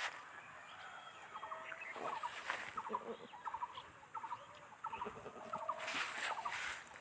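Birds chirping: short, quick runs of high chirps repeated again and again, with a brief rustling hiss about six seconds in.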